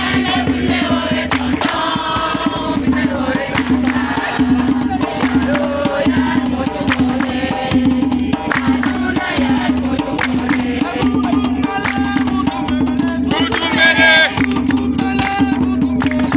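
Group singing with a steady, evenly repeating drumbeat.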